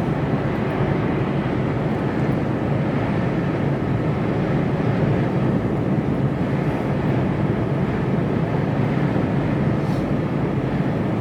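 Mercedes-Benz Actros lorry cruising at motorway speed: a steady, unchanging drone of engine and road noise heard inside the cab.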